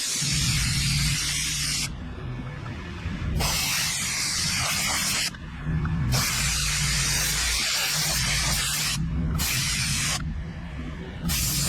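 Pressure washer spraying in spurts: the hiss of the high-pressure water stops and starts again four times as the trigger is released and squeezed. Under it, the washer's engine hums steadily.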